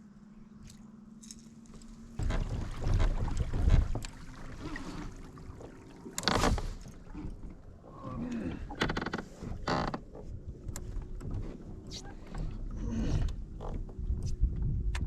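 Water splashing and lapping on a plastic fishing kayak with wind buffeting the microphone: a low uneven rumble that starts about two seconds in, scattered knocks and clicks, and one loud burst about six seconds in.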